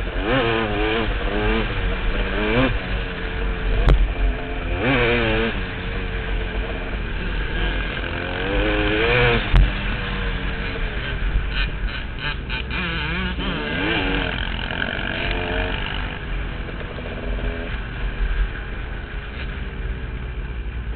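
KTM dirt bike engine running under way, its pitch rising and falling repeatedly as the throttle is opened and closed, over a steady low wind rumble on the microphone. Two sharp knocks come through, one about four seconds in and another a few seconds later.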